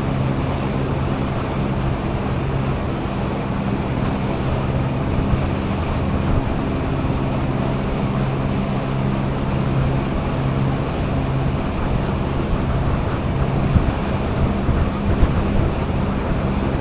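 Passenger boat's engine running steadily at cruising speed, a low even hum under the rush of water along the hull and wind on the microphone.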